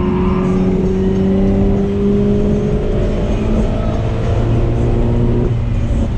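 2017 Toyota 86's 2.0-litre flat-four engine pulling hard through one gear, heard inside the cabin, its note climbing slowly as the revs rise. The note changes about five and a half seconds in.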